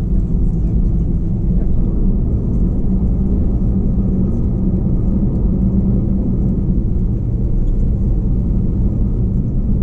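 Cabin noise of an Airbus A321-211 heard from a rear window seat: a steady, loud, low rumble of the CFM56 engines and airflow, with a constant hum and no change in pitch.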